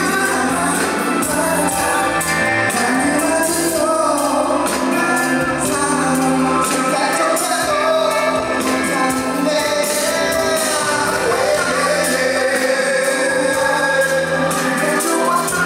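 Pop song performed live at a concert: a singer's voice over amplified band music.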